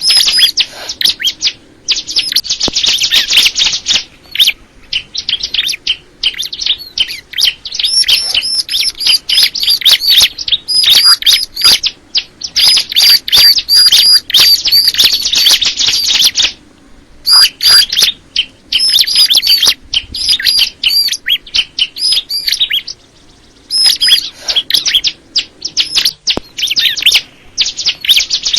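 Crystal ciblek, a bar-winged prinia, singing in long runs of rapid, sharp high-pitched chirps, broken now and then by short pauses.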